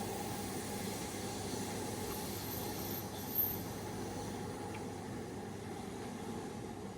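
Steady running noise of a passenger train carriage heard from inside, with one short knock about three and a half seconds in.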